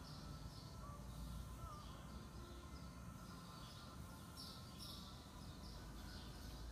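Quiet room tone with a steady low hum and faint bird chirps at irregular intervals.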